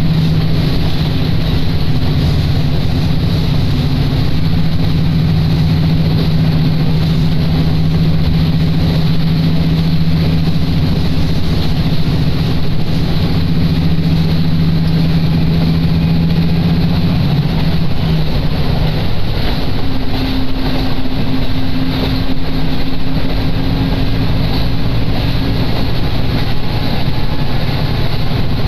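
Diesel railcar running, heard from inside the cabin: a steady engine drone over rail and running noise. About two-thirds of the way through the low engine note drops away and a higher steady tone sounds for several seconds.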